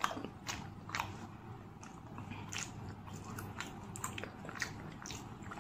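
A person chewing a mouthful of food close to the microphone: irregular wet mouth clicks and smacks, about one or two a second.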